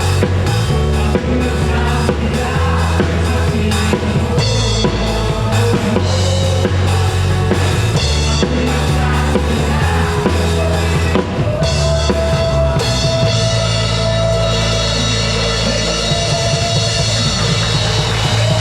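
Live band playing a song: a drum kit keeps a steady beat under sustained bass notes and held chords.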